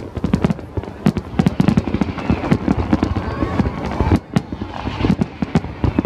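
Large aerial fireworks display: a dense, continuous run of shell bursts and crackling, many reports a second, with a brief lull about four seconds in.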